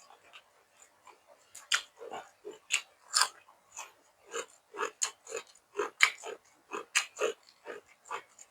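Close-up eating sounds: a person chewing a full mouthful with wet smacks and crunches, several irregular clicks a second.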